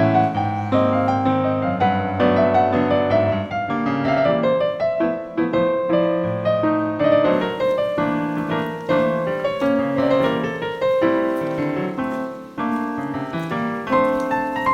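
Background music: solo piano playing a melody with chords, no singing.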